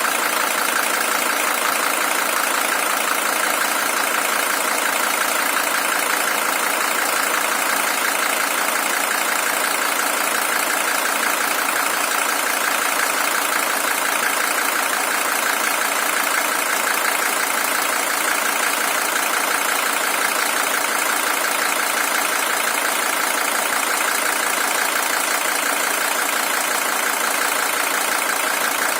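Mercedes-Benz OM617 five-cylinder diesel engine idling steadily with an even diesel clatter. It is a high-mileage original engine with 620,000 km.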